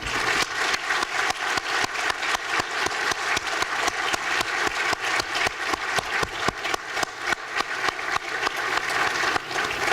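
Large audience applauding: dense, steady clapping that keeps up without a break, answering a call to give a big hand.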